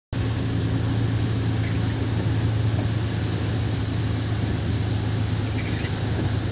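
Truck's diesel engine running with a steady low hum, with road noise under it, as the truck drives.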